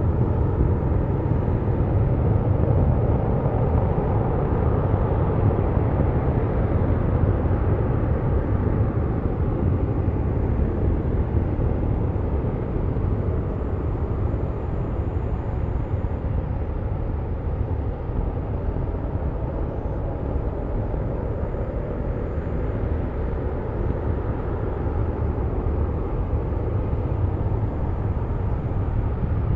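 Distant LE-9 liquid-fuelled rocket engine on a test stand, firing: a steady, unbroken low rumble.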